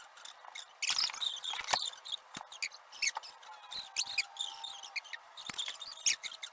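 Irregular small clicks, taps and squeaks of hands working hardware: knobs and bolts being turned to clamp a canister filter's metal flange against plywood.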